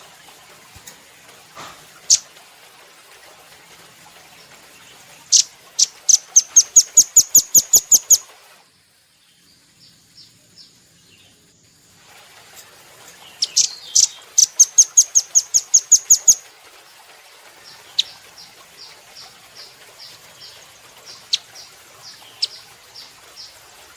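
Velvet-fronted nuthatch (red-billed 'rambatan') singing: two fast runs of sharp, high, piercing notes, about five a second and each lasting about three seconds. Slower single notes are scattered between and after the runs. The sound briefly cuts out to near silence after the first run.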